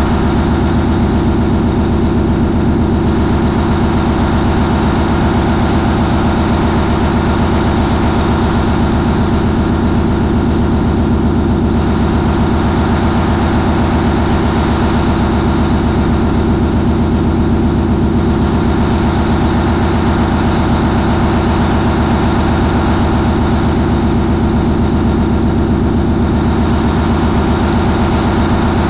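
MAN 20V28/33D STC twenty-cylinder V diesel, a fast ferry's main propulsion engine, running steadily at about 940 RPM, past its turbocharger changeover. A loud, even, deep engine note with no change in speed.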